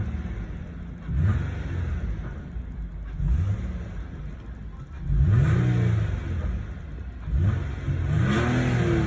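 2008 Nissan Altima Coupe 3.5 SE's VQ-series 3.5-litre V6 revved from idle in four throttle blips, each rising and falling in pitch, the last two longer and higher. The engine is running on freshly changed oil, and the owner finds it smooth.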